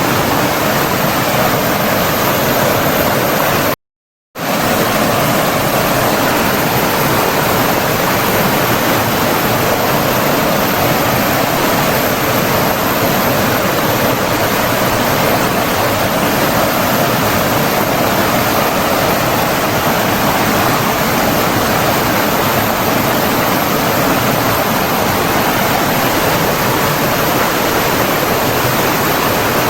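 Running water rushing steadily, a dense even roar like a stream or waterfall. About four seconds in it cuts out completely for half a second, then resumes.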